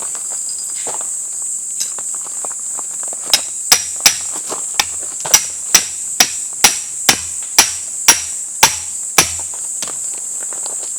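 A hammer striking about a dozen sharp, evenly paced blows, roughly two a second, starting about three seconds in and stopping near nine seconds. Under them is a steady high drone of insects.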